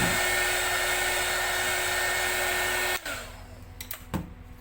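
Hot air gun blowing steadily with a high whine as it heats old headlamp sticker film to soften the glue, switched off suddenly about three seconds in. A few light clicks and a sharper knock follow.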